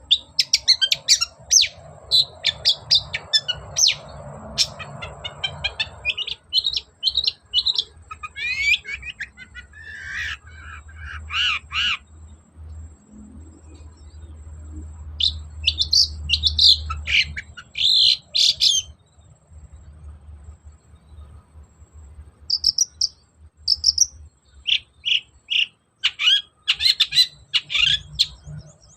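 Long-tailed shrike (cendet) singing in rapid bursts of sharp, high chattering notes, broken by two pauses of a few seconds.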